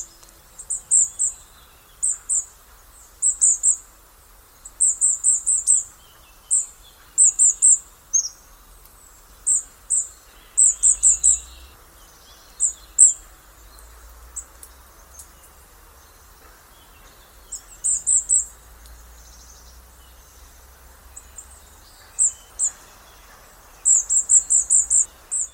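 Small birds giving high, thin calls in quick runs of three to six notes, repeated on and off throughout.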